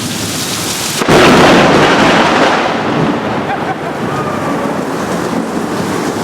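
Heavy rain pouring steadily. About a second in, a sudden loud thunderclap cracks out and rumbles away over the next couple of seconds while the rain keeps falling.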